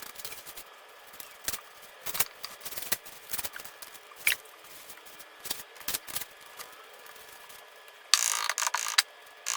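Adhesive tape being worked along the joints of a wooden concrete form: scattered sharp clicks and crackles, then two longer ripping pulls of tape off the roll near the end.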